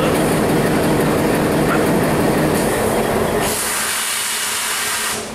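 Rajshahi Express passenger coaches rolling past on the rails, a dense steady rumble. About three and a half seconds in the low rumble drops away, leaving a high hiss as the last coaches move off.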